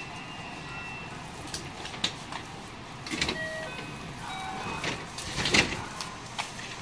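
Noise inside a JR West 207 series 1000 commuter train car: a steady rumble with sharp clicks and knocks, the loudest about five and a half seconds in, and a few brief squeaks.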